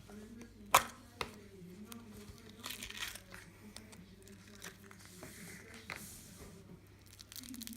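Slime being squeezed and stretched by hand, crackling and popping, with one sharp pop about a second in.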